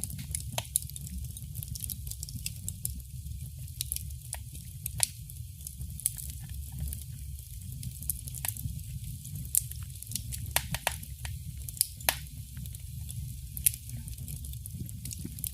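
Wood fire crackling in a fireplace: irregular sharp pops and snaps, a handful clearly louder than the rest, over a steady low rumble.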